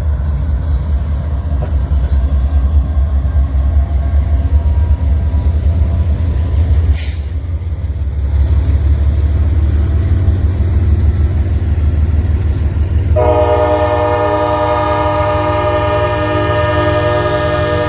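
Norfolk Southern freight train's diesel locomotives rumbling steadily, then the locomotive air horn sounding a long, sustained chord about 13 seconds in.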